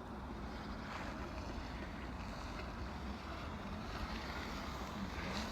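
Steady wind rumble on the microphone. In the second half, a faint motor whine rises and falls in pitch, from the kids' electric motorcycle's hub motor.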